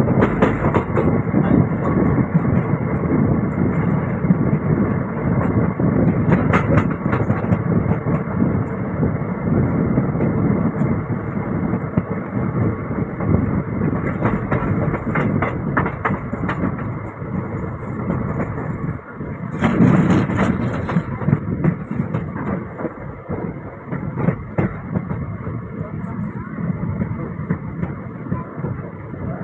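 Running noise of an electric-hauled express passenger train, heard from alongside a coach's open side: a continuous rumble and rattle of wheels on the track, with scattered sharper clicks. About twenty seconds in there is a brief louder, hissier burst.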